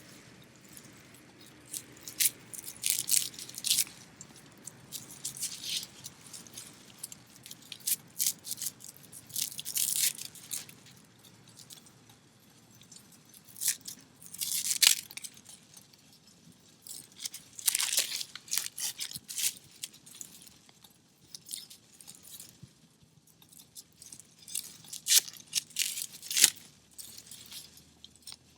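Wood fire in a small fire stand crackling, with irregular clusters of sharp snaps and pops and short quieter gaps between them.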